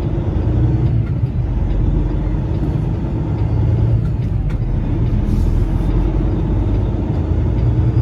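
Semi truck's diesel engine running steadily at low speed, a continuous low rumble.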